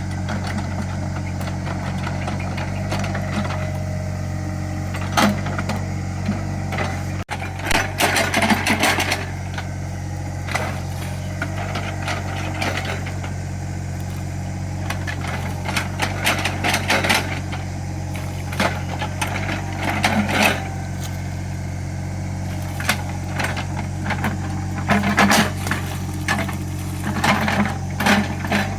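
Small Caterpillar excavator's diesel engine running steadily, with repeated bursts of clanking and scraping as it digs soil.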